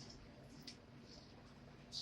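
Faint chewing with a couple of small wet mouth clicks, one about two-thirds of a second in and one near the end, over quiet room tone.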